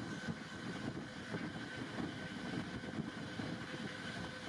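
Running noise of a moving sleeper train heard from inside the compartment: a steady low rush with a faint, thin steady whine above it.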